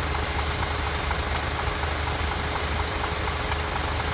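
Truck engine idling steadily, with a light regular ticking over the low rumble. Two brief sharp clicks sound, about a second in and again near the end.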